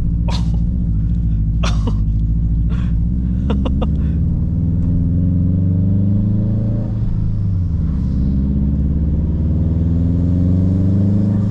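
Turbocharged car engine heard from the cabin, pulling uphill in a low gear with its pitch climbing steadily; about seven seconds in the pitch drops at a gear shift and then climbs again. A few sharp clicks sound in the first few seconds.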